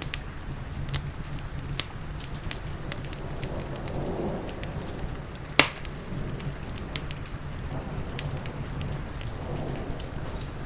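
Steady rain with a crackling wood fire: scattered sharp crackles and pops, one much louder pop about halfway through.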